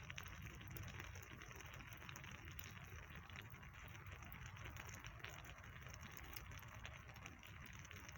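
Wood campfire burning, with a steady hiss and many small irregular crackles and pops.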